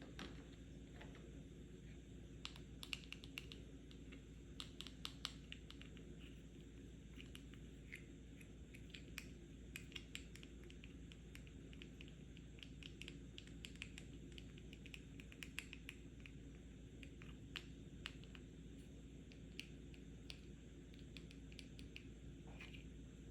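Fingers tapping on a medicine/pill box: quick, light, irregular taps in little clusters, over a faint steady low hum.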